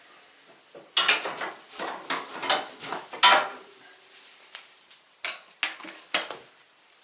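Kitchenware clattering: a run of knocks and scrapes, the loudest about three seconds in followed by a short ringing note, then a few separate sharp knocks near the end.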